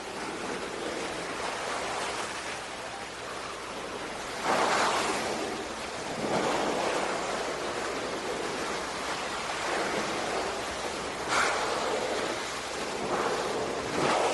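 Water splashing in a bird bath as a bird bathes: a steady rushing wash with four louder splashing bouts of about a second each.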